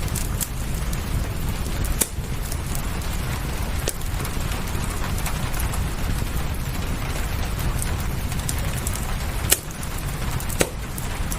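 Wood fire crackling, with a few sharp pops over a steady low rumble of rain.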